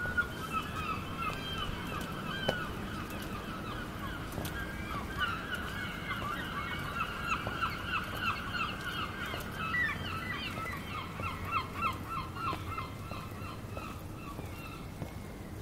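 Birds calling: a long run of rapid, repeated harsh calls, several a second, that fades near the end.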